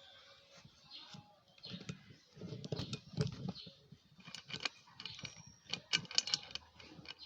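Irregular metallic clicks and taps with a few dull knocks, the sound of a wrench working the screw of a steering-wheel puller set on a stuck outboard propeller.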